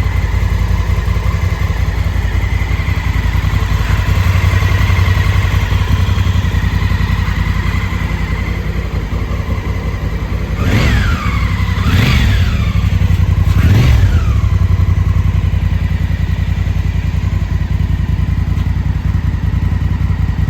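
2017 Honda Africa Twin's parallel-twin engine idling steadily, blipped three times in quick succession about halfway through, each rev rising and dropping straight back to idle.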